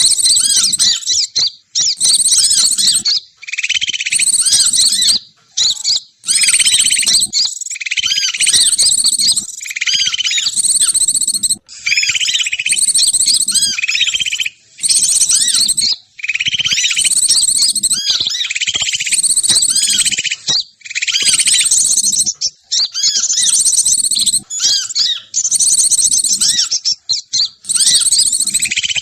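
Dense, nearly unbroken chirping and twittering of small birds, with quick repeated notes and trills that pause only briefly. It is a bird-lure call played to draw wild birds down to a trap.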